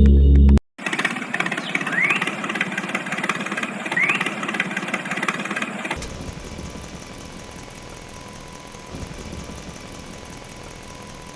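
Small motor of a DIY mini tractor running, a busy mechanical noise with two short rising squeaks. Partway through it changes to a quieter, steadier running sound.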